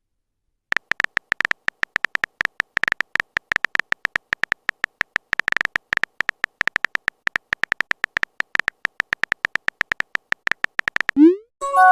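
Phone keyboard typing sound effect: a long run of rapid, irregular tapping clicks, each with a bright beep-like tone. Near the end comes a short rising pop and a brief chime, a message-sent or received alert.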